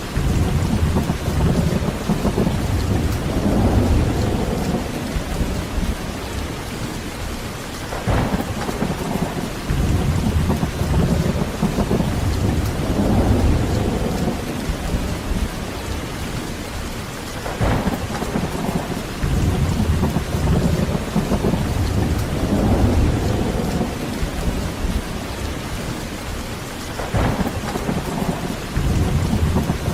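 Heavy rain falling steadily with rolling thunder. A sharper thunder crack comes about every nine seconds: near the start, then about 8, 18 and 27 seconds in. Each crack is followed by several seconds of deep rumbling.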